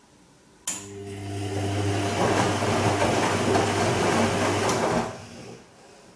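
Bosch Serie 2 Vario Perfect washing machine starting up with a click and running briefly on its Silk cycle: a steady hum with a rushing sound that swells, lasting about four seconds, then stopping.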